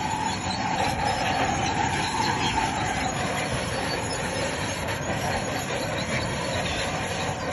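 Bulldozer working, its engine running under steady loud noise while the steel tracks give off a wavering squeal and grind.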